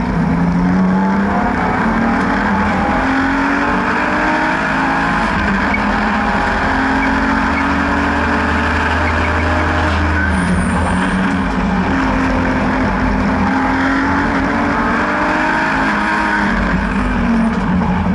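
BMW N52B30 3.0-litre naturally aspirated straight-six in an E36 track car, driven hard on a circuit: the engine note climbs under acceleration and drops back several times as the car shifts and brakes for corners.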